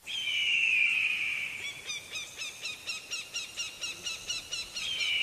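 A bird calling: a long whistled note, then a fast run of short repeated chirps about five a second, and the long note again near the end, over a faint outdoor hiss.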